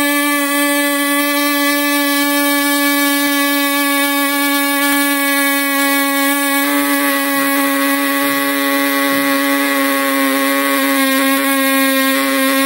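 A beatboxer's sustained buzzing vocal drone, held at one steady pitch like a running motor. Its tone changes a little about halfway through.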